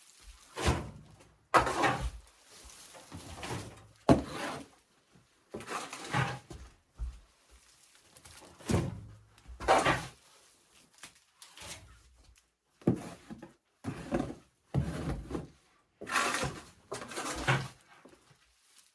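A series of about a dozen irregular knocks, thuds and scrapes, like things being handled and set down, a second or two apart.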